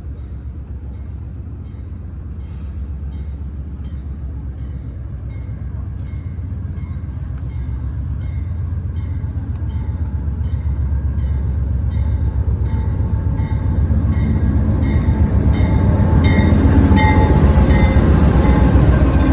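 Train approaching, its low rumble growing steadily louder, with a regular high ticking about twice a second.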